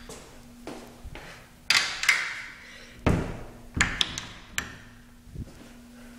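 A toilet-stall door being handled: several sharp knocks and thuds, the first followed by a short rush of noise, over a faint steady hum.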